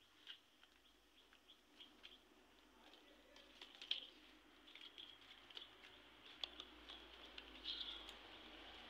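Near silence: faint outdoor ambience with scattered short, high bird chirps and a few light clicks.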